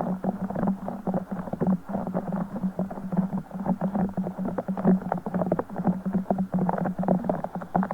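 A broken Orbeez ball being squeezed and squished by hand without a break, giving rapid, dense crackling squelches over a steady low hum.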